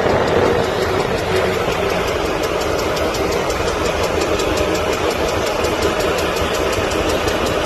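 A car driving steadily: constant engine and road noise, with a faint, even ticking of several ticks a second.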